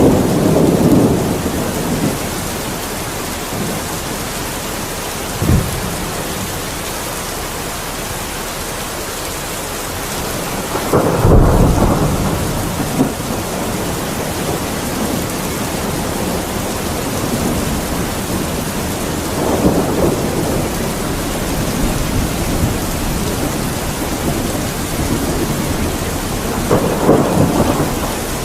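Steady rain with repeated thunder: a rumble at the start, a short sharp crack about five seconds in, the loudest rolling peal near the middle, and lighter rumbles later on.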